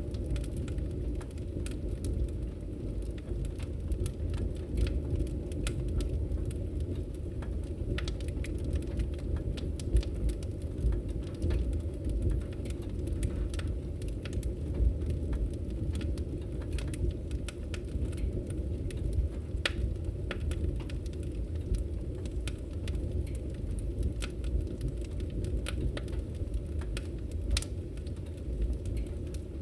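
Campfire crackling: a steady low rumble of burning wood with frequent irregular sharp pops and snaps.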